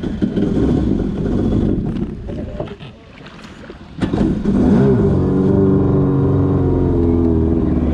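Jet ski engine running roughly, dropping away for about a second, then catching again about four seconds in and running steadily.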